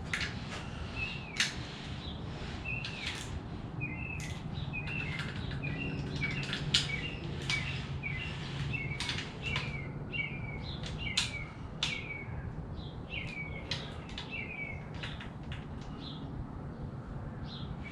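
Irregular sharp metallic clicks and clinks of hand tools working on an engine, with a short, high, falling chirp repeating about every half second to second through most of it.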